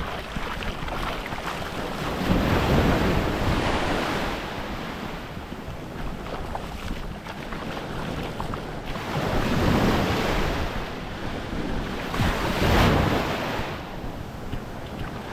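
Small waves breaking and washing up the shore, swelling three times, with wind buffeting the microphone as a low rumble throughout.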